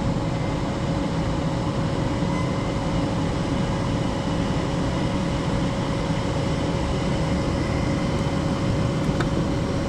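Gas furnace's draft inducer motor running steadily with a constant tone, at the start of the furnace's heating cycle.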